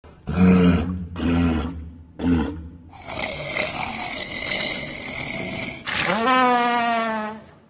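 Walrus calling: three short, deep grunts about a second apart, then a longer noisy call. Near the end comes a pitched call that rises at its start and holds for about a second and a half.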